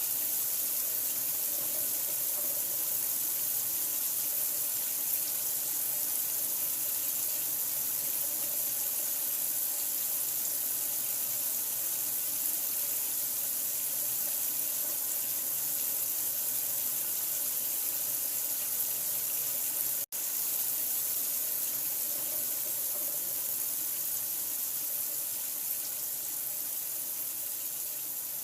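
Steady running water, an even bright hiss like a tap running into a sink. It cuts out for an instant about 20 seconds in, then carries on unchanged.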